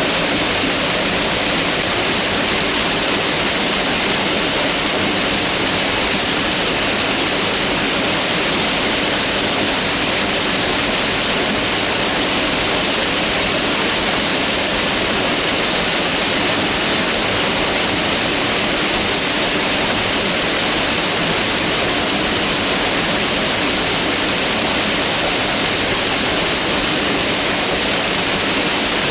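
Mountain river rushing steadily over rocks: a loud, even roar of running water with no change.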